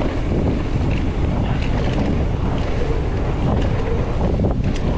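Wind buffeting the microphone and mountain-bike tyres rumbling over a rough dirt trail during a fast descent, with a few sharp rattles near the end.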